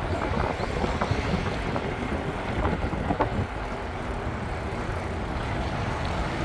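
Mountain bike being ridden: a steady low rumble of tyres rolling and wind on the microphone, with a few sharp rattling clicks from the bike.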